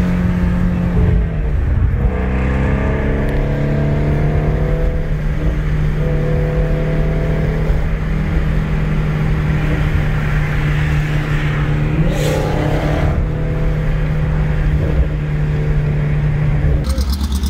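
Ford Mustang GT350R's 5.2-litre flat-plane-crank V8 running at a steady highway cruise, heard from inside the cabin. Its note drops in pitch about two seconds in, then holds steady, and gives way to a different steady rumble near the end.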